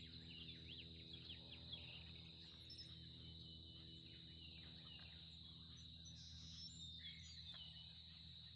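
Faint outdoor birdsong: scattered short chirps and quick trills, thickest in the first couple of seconds, over a steady high-pitched drone and a low steady hum.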